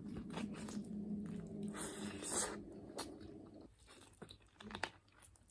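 A person eating close to the microphone: biting and chewing, with short crunches. Near the start there is a low steady sound that may be humming behind the chewing.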